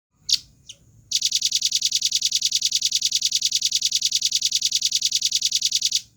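Velvet-fronted nuthatch calling: two short, high call notes, then a long, fast, even trill of about ten notes a second that stops sharply after about five seconds.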